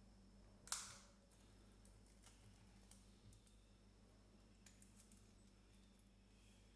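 A single sharp click a little under a second in, then a few faint taps and ticks against near silence, as a smartwatch is handled.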